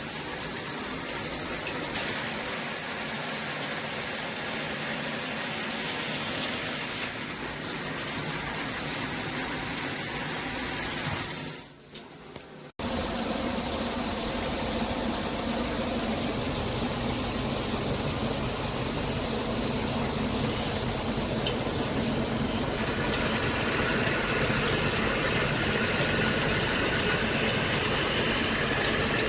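Water spraying from a shower head as a steady hiss. About twelve seconds in it cuts out briefly and comes back as a fuller, lower rush of water.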